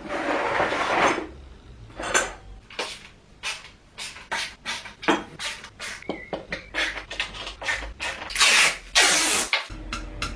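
Handling and unwrapping flat-pack furniture parts: two long stretches of rubbing and rustling, one at the start and one near the end, with many short clicks and knocks between them.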